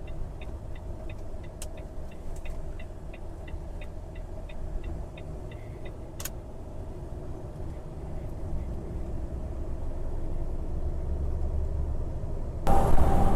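Gas-powered lorry's engine heard from inside the cab as a low, steady rumble that grows louder over the second half. For the first five seconds a steady ticking runs over it, about two and a half a second, with one sharp click about six seconds in.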